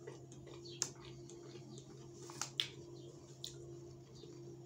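A few soft clicks and smacks from a man chewing a cream sponge cake, over a steady low hum.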